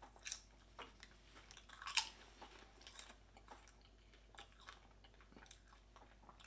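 A person chewing toffee caramel popcorn: faint, irregular crunches, the loudest about two seconds in, growing fainter through the second half. The caramel coating gives a soft, mellow chew rather than a crisp snap.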